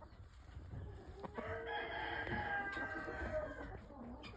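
A rooster crowing once, a single drawn-out call of about two seconds that starts about a second and a half in.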